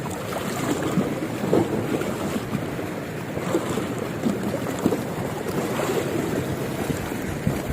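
Wind buffeting the microphone over the wash of sea water, a steady rough rush without a clear engine note.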